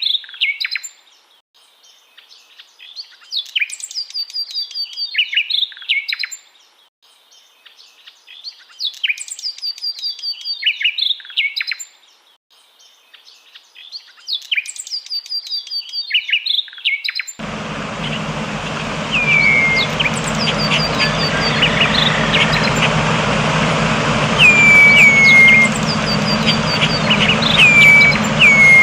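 Songbird singing the same short, complex phrase about every five seconds, with quiet gaps between. About two-thirds of the way through, the sound cuts abruptly to another bird recording over steady background noise and hum, where a bird gives short, falling whistled calls every second or two.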